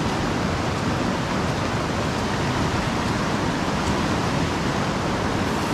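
A river in heavy flood, its fast water making a steady, even rushing.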